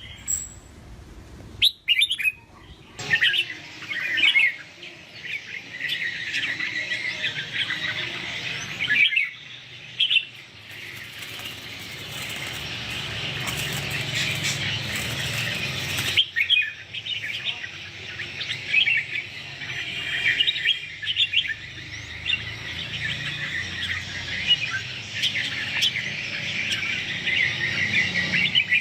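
Red-whiskered bulbuls singing, a busy run of quick chirping song phrases one after another.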